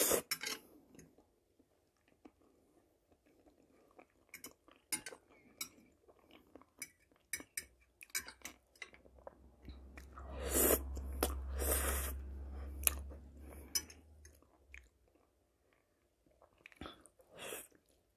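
Close-miked chewing and wet mouth sounds of a person eating fried mushrooms with spaghetti: scattered small smacks and clicks, and a louder, longer stretch of mouth noise about ten seconds in as a forkful of noodles goes in.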